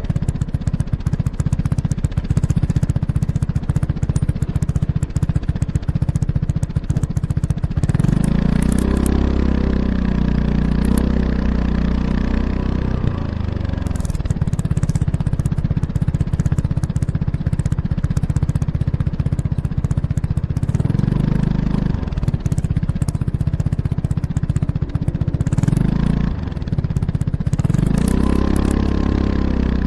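Kymco X-Town scooter's single-cylinder engine through an Arrow Urban exhaust with its dB killer installed, heard close to the exhaust while riding. It runs steadily, with the engine speed swelling up and dropping back about eight seconds in, again later, and twice near the end.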